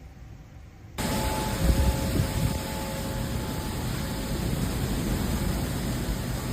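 Severe-storm wind and rain noise on the microphone: a steady rushing with gusty low buffeting that cuts in suddenly about a second in, after a quieter low rumble.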